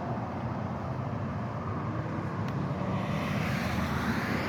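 Steady rumble of distant engine noise that swells in the second half.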